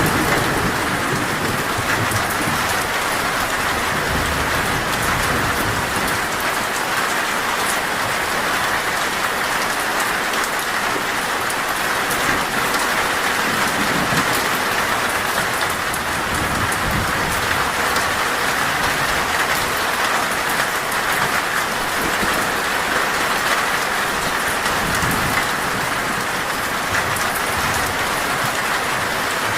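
Heavy, torrential rain drumming steadily on a metal roof. A low rumble of thunder fades out in the first few seconds.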